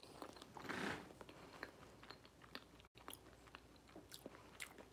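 Faint chewing of soft food, with scattered small wet mouth clicks close to the microphone.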